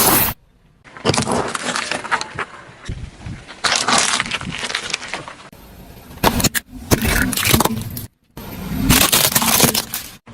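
Car tyres rolling over and crushing brittle objects: several bursts of crunching and cracking, broken by abrupt cuts.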